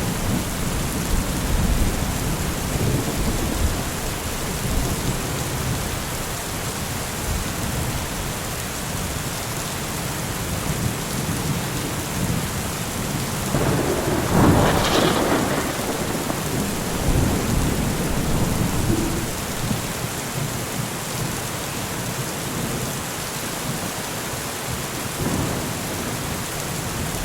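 Steady rain falling in a thunderstorm, with low rumbles of thunder and one louder burst of thunder about halfway through.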